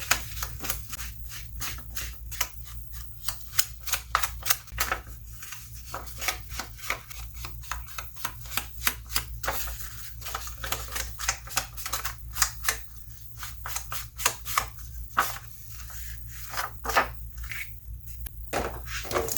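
Ink pad being tapped and dabbed along torn paper edges: a quick, irregular run of light taps and clicks, several a second, over a low steady hum.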